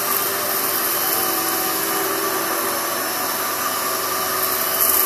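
Kenmore 600 series bagless vacuum cleaner running steadily as it is pushed over carpet, picking up sand from a test patch.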